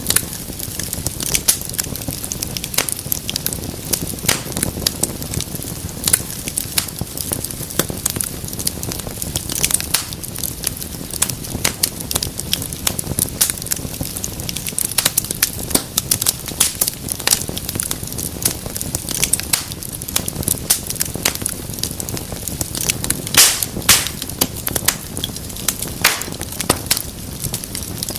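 Wood fire in a fireplace crackling, with a steady low rumble of the flames under dense, irregular snaps and pops, and a few louder pops close together about 23 seconds in.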